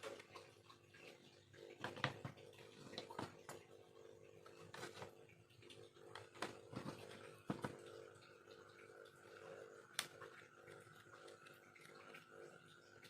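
Knife carving bamboo: faint, irregular small clicks, taps and scrapes as the blade cuts and chips the cane, over a steady low hum.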